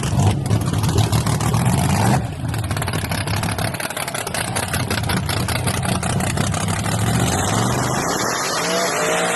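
Drag-racing Chevy S10 race truck's V8 at full throttle, loud and rough, dropping off sharply about two seconds in. An engine keeps running more quietly after that, and near the end its pitch rises as it revs.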